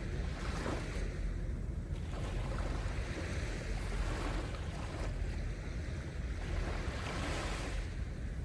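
Gentle sea waves washing onto a sandy beach, swelling and falling back several times, with wind rumbling on the microphone.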